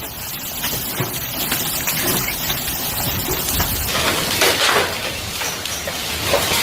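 Hail and heavy rain pelting down: a dense steady rush of rain with many sharp impacts. The impacts grow louder about four seconds in.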